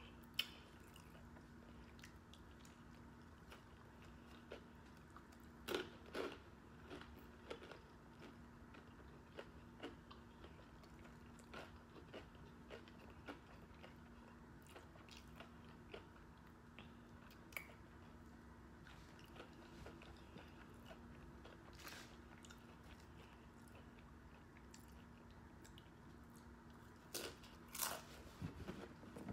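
Close-up chewing and crisp crunching of a hard-shell taco, in scattered bites, the loudest about six seconds in and again near the end.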